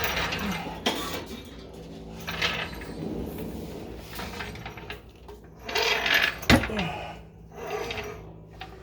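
Hand tools working on metal: irregular clinks, scrapes and a ratchet-like clicking, with one sharp click about six and a half seconds in. A faint steady hum runs underneath.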